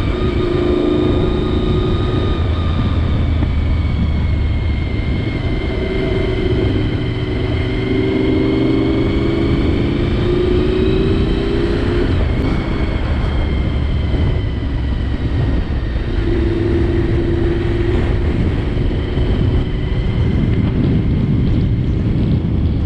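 Honda VFR750 motorcycle's V4 engine running under way, its note rising and easing with the throttle, with wind rushing over the helmet-mounted microphone.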